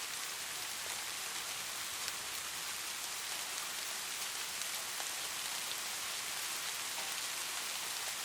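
Light rain falling steadily, an even hiss with scattered drops pattering on a surface.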